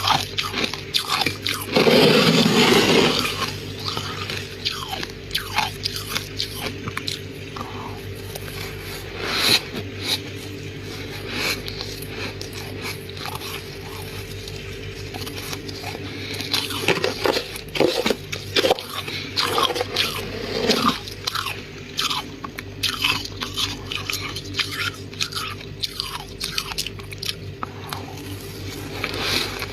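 Soft freezer frost being bitten and chewed: many crisp crunches, loudest about two seconds in, over a steady low hum.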